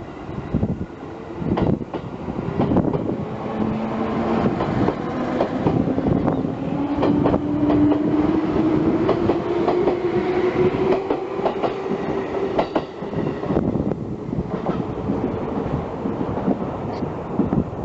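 Electric local train running on the line, its wheels clattering over rail joints in quick irregular clicks, with a motor whine rising steadily in pitch from about 3 seconds in as the train gathers speed.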